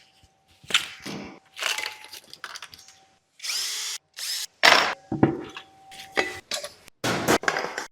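Power tool running in a rapid string of short bursts, a fraction of a second each and cut off abruptly, mixed with clicks and knocks of tools on engine parts.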